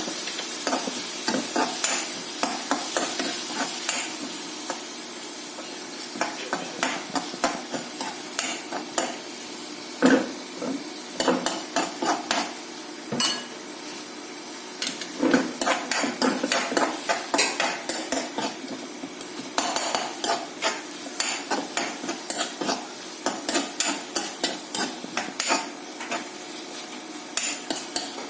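Shallots and chopped tomato sizzling in coconut oil in a kadai while being stirred, with a utensil scraping and clacking against the pan in many short, quick strokes.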